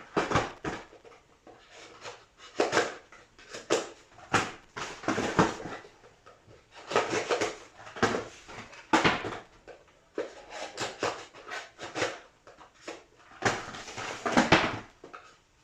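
Rustling and crinkling of card packaging as booster packs are handled and torn open, in short, irregular bursts about once a second.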